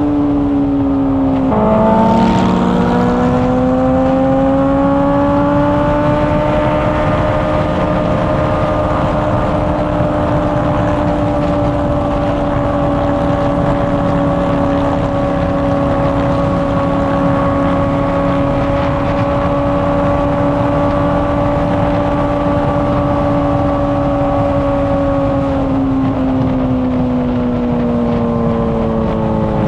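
Honda CBR600RR inline-four sportbike engine and exhaust under way, with wind rush over it. The engine pitch drops at a gear change about a second and a half in, then climbs for a few seconds. It holds steady at a cruise for about twenty seconds and falls off near the end as the bike slows.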